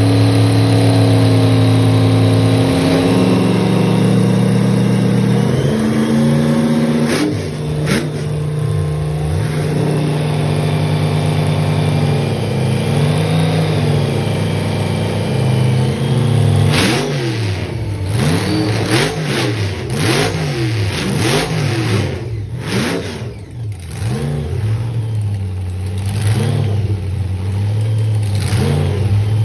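A car engine running at a steady, fairly high idle, its pitch stepping up and down a few times. From about halfway through it is revved again and again in quick throttle blips, each rising and falling.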